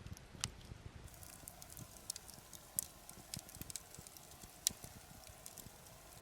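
Wood campfire crackling: scattered sharp pops and snaps at irregular intervals, a few louder than the rest, over a faint steady hiss.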